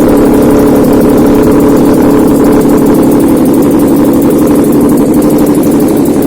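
Toyota 2GR-FE 3.5-litre V6 engine running steadily at idle on a test stand, being run to check the used engine's condition.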